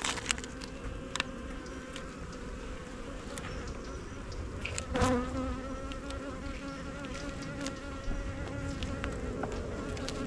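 Honey bees buzzing around an open hive, a steady wavering drone, with one insect flying close past the microphone about five seconds in, its buzz swelling and dipping in pitch. A few light clicks sound through it.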